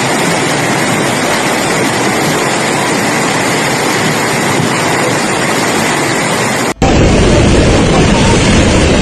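Floodwater rushing loudly and steadily. About seven seconds in, an abrupt cut switches to a louder, deeper rush of water.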